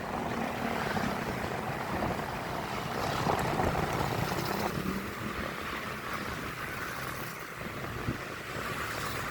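A road vehicle running steadily, with wind noise on the microphone.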